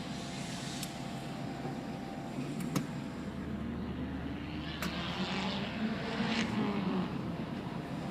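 Car engine running, its note rising and then falling around the middle, with a few sharp clicks.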